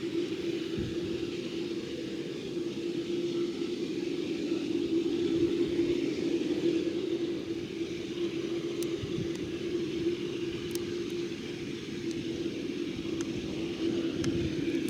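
Steady drone of the Boeing 747-8F's General Electric GEnx jet engines: a constant hum over an even rushing noise, with a few faint ticks.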